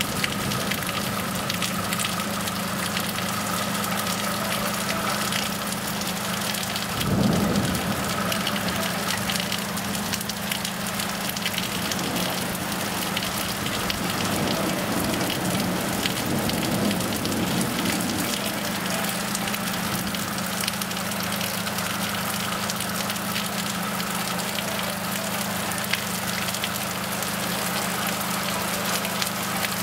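Heavy thunderstorm rain pouring steadily, with a short rumble of thunder about seven seconds in and a longer, softer rumble a few seconds later.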